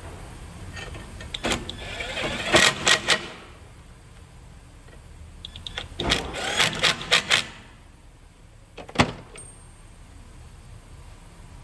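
Tools and brake parts being handled during a rear brake job: two short bouts of clattering and clinking, then a single sharp clank about nine seconds in.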